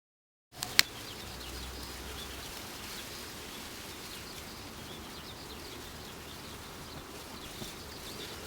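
Outdoor ambience: a steady background hiss with faint bird chirps, and one sharp click about a second in.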